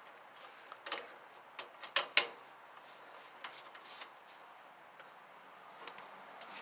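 Scattered light clicks and knocks at an irregular pace, the sound of small hard parts being handled, with the sharpest pair about two seconds in.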